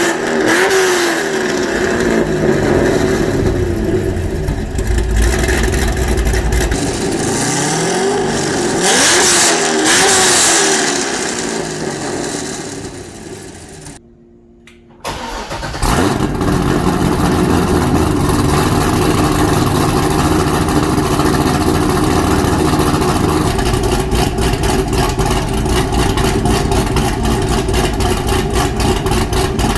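Chevrolet Corvette C6 Z06's 7.0-litre LS7 V8 with an aftermarket exhaust, revving up and down several times before the sound dies away about fourteen seconds in. After a second of near silence the engine starts abruptly and runs steadily with an even rhythmic pulse.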